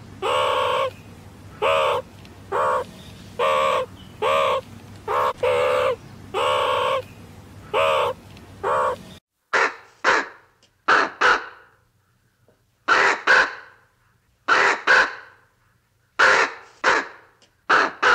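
Birds calling: a run of about a dozen loud, pitched calls in quick succession over a low hum. After a cut about nine seconds in, a different run of short, sharp calls follows, in twos and threes.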